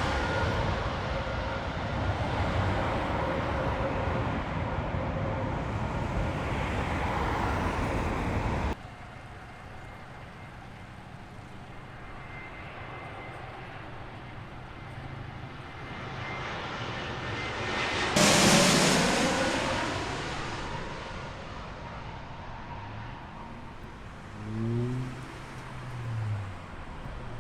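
Jet airliners passing low overhead on final approach. The first is already fading away and breaks off abruptly at a cut about 9 s in. A second jet swells in and passes overhead about 18 s in, with a sudden loud rush and a falling pitch, then fades.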